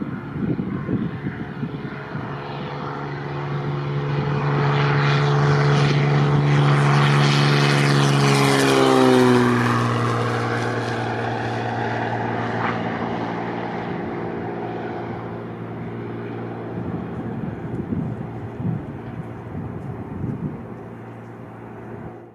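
Cessna 182P Skylane at full takeoff power: the propeller and six-cylinder piston engine drone grows louder as the plane approaches. The pitch drops as it passes about nine seconds in, then the drone fades steadily as the plane climbs away.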